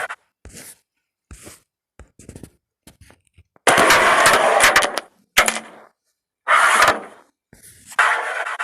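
Carrom striker and coins sliding across a powdered wooden board, with sharp clicks of the striker hitting the coins. A run of short sliding hisses, the longest and loudest about halfway through, lasting about a second and a half.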